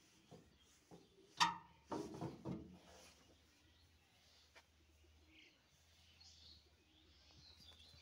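A single sharp knock about a second and a half in, then faint high bird chirps a few times over a low steady hum.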